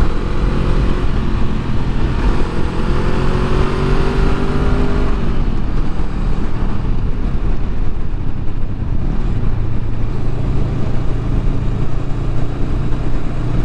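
Honda Rebel 500's parallel-twin engine through its stock muffler, rising in pitch as the bike accelerates for about five seconds, then running steadily at cruising speed under an even rush of noise. The stock muffler keeps the exhaust quiet.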